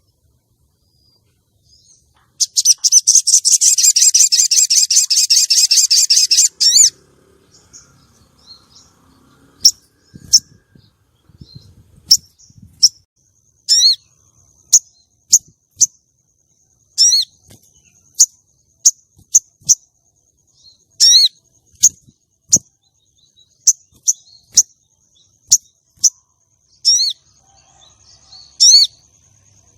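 Female crimson sunbird (sogon) calling: a rapid, high chattering trill lasting about four seconds, then a string of sharp single high chips, roughly one a second.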